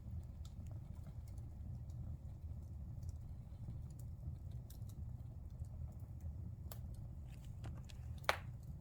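Wood fire crackling in a fireplace: scattered small snaps over a low steady rumble, with one louder pop near the end.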